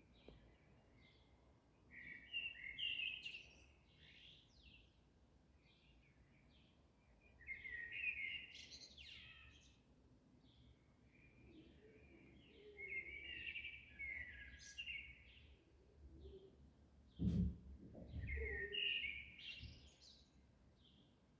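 Small songbirds chirping and singing in a dawn chorus, in bursts of twittering every few seconds. About seventeen seconds in there is a sharp knock, then a low thump a second later.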